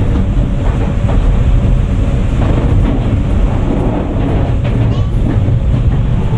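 Tokyu 9000 series electric train running: a steady rumble of wheels on the rails, with scattered clicks from the track.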